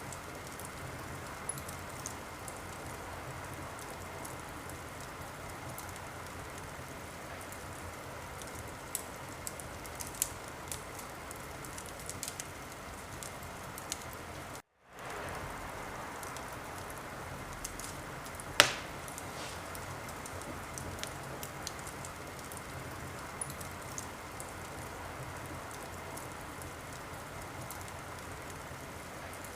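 Wood fire burning in a fireplace: a steady hiss with scattered small crackles and one loud pop about two-thirds of the way through. The sound cuts out completely for a split second about halfway.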